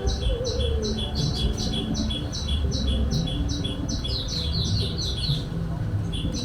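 Small bird giving a rapid series of short, high chirps, about three a second, that breaks off near the end, over a low rumbling background.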